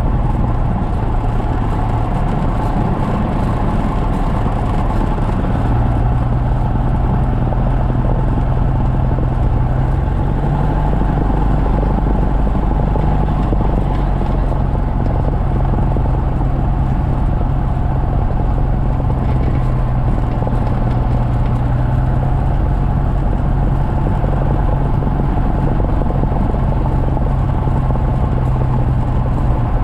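Cessna 172's piston engine and propeller droning steadily at cruise power, its pitch stepping slightly a couple of times.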